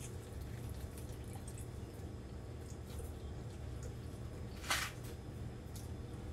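A person chewing a mouthful of soft-battered fried chicken: small wet mouth clicks, and one short louder mouth noise about four and a half seconds in, over a steady low hum.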